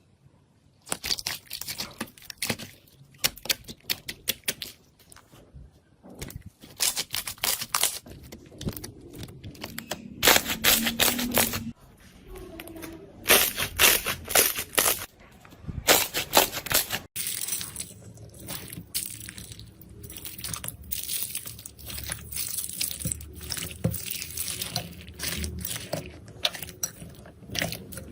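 Slime being squeezed, poked and stretched by hand, giving fast runs of sticky clicks, pops and squelches. About two thirds of the way through the sound switches abruptly to a denser, steadier crackle.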